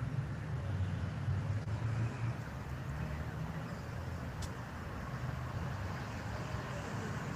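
Steady low rumble of road traffic, with one brief high click or chirp about four and a half seconds in.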